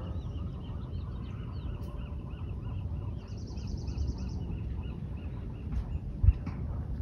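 Wild birds calling in the trees: runs of short chirping notes, and a high rapid trill lasting about a second midway. A low rumble on the microphone runs underneath, with one sharp thump a little after six seconds.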